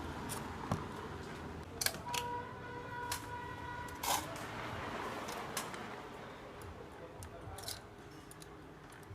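Hand work on metal parts: scattered sharp clicks and taps, one followed by a brief ringing tone, over a steady hiss.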